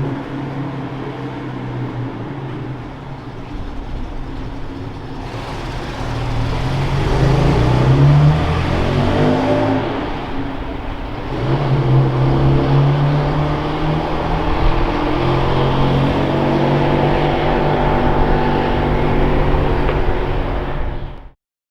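A car engine revving and accelerating: it climbs in pitch, drops back about ten seconds in, then pulls again and holds a steady run before cutting off suddenly near the end.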